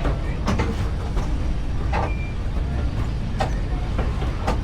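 Railway carriage running along the track: a steady low rumble with irregular sharp knocks as the wheels pass over rail joints.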